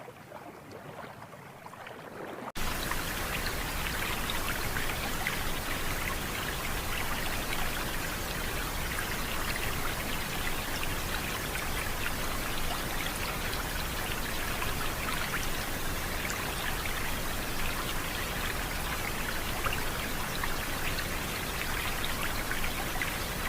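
Steady, dense splashing water, a hiss full of fine patters, cutting in abruptly about two and a half seconds in after a quieter water sound.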